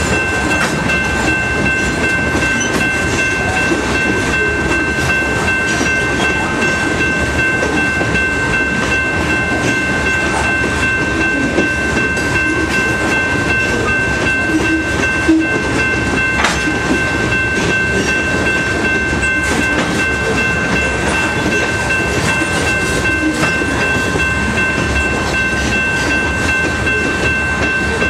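Freight train of covered hopper cars rolling steadily past, the wheels rumbling and clattering over the rails, with a steady high-pitched whine over it.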